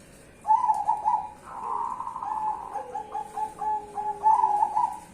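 Zebra doves (perkutut) cooing: a string of quick, rolling coo notes starts about half a second in and runs until shortly before the end. A fainter, lower note slowly falls in pitch underneath through the middle.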